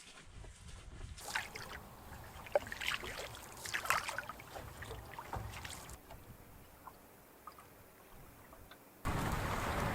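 Canoe paddling on a lake: paddle splashes, water dripping and light knocks, fading to a quieter spell. About nine seconds in it cuts sharply to a steady, louder rush of wind and water.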